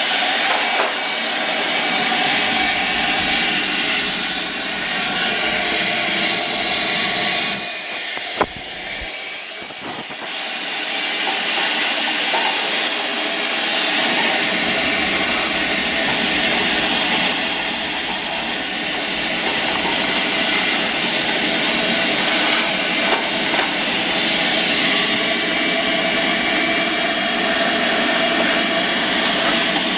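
Vacuum motor running steadily while dirt is sucked off a caked condenser coil. It dips briefly with a click about eight seconds in, then runs on.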